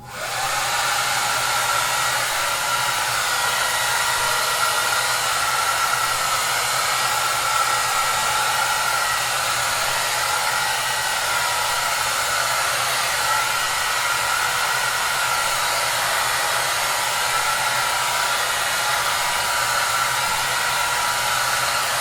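Hair dryer blowing at a steady level, an even rushing hiss with a faint low hum underneath. It comes in suddenly from silence at the very start and holds constant throughout.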